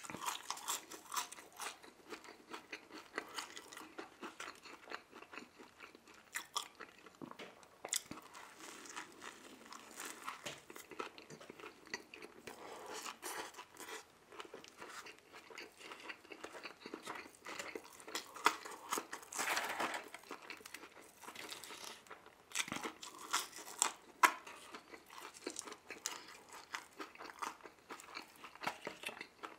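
Close-miked eating: chewing fries and biting into a McDonald's Big Mac, with irregular crunching and chewing throughout.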